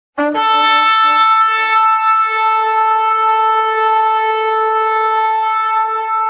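Shofar blown in one long loud blast starting about a fifth of a second in. It opens with a brief lower, unsteady note, then steps up and holds a steady tone.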